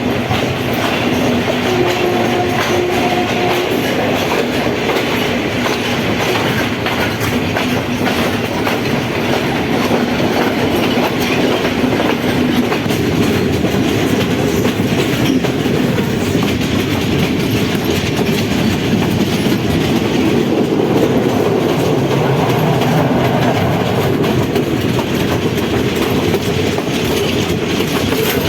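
Passenger train running along the track: a steady rumble of wheels on rails with clickety-clack over the rail joints. A faint short tone sounds about two seconds in.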